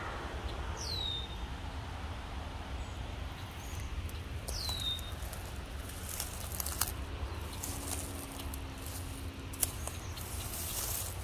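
A bird gives two short whistled calls that slide down in pitch, about four seconds apart, over a steady low wind rumble. In the second half there are a few crackles and rustles, like plants brushing past.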